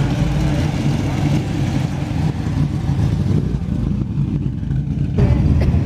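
Car engine running with a low, steady rumble; about five seconds in it switches abruptly to a louder, deeper rumble.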